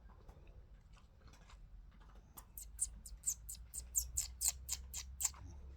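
Indian ringneck parakeet making a quick run of short, high kissing clicks, about four or five a second, starting about halfway through.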